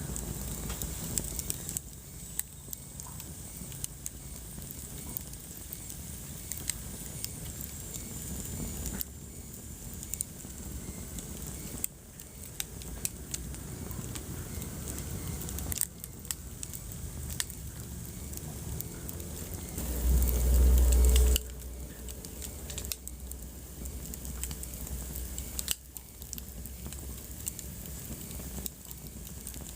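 Wood fire crackling in a fireplace: a steady hiss with many sharp, irregular pops and crackles. About two-thirds of the way through comes a loud low rumble lasting a second and a half.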